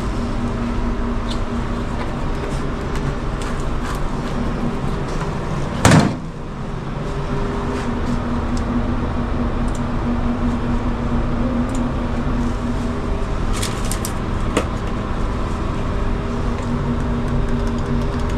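Steady machinery hum throughout, with one loud sharp knock about six seconds in and a few light clicks near the fourteen-second mark.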